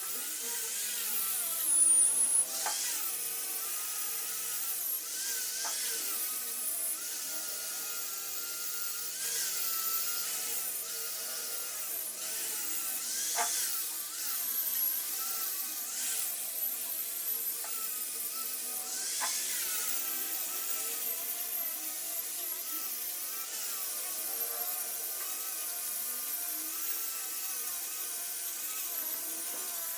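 High-speed rotary carving tool working wood: a high whine that wavers in pitch as it bites, with brief scraping touches.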